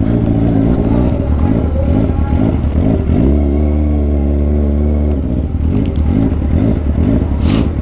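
Kawasaki ZX25R's 250 cc inline-four engine running at low revs while the bike creeps along at walking pace, the pitch wavering with small throttle changes and holding steady for a couple of seconds in the middle. A short hiss near the end.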